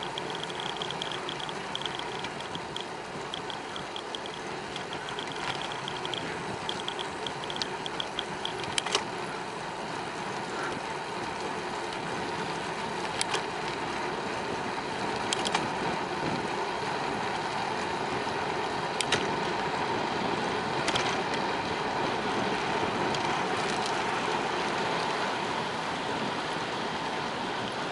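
Bicycle ride: steady tyre-on-road and wind noise, with a rapid high ticking for the first eight seconds or so and a few sharp clicks or knocks scattered through the rest.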